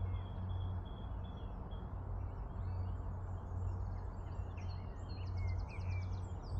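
Small birds chirping and twittering over a steady low outdoor rumble, with a held whistled note early and a rapid trill about five seconds in.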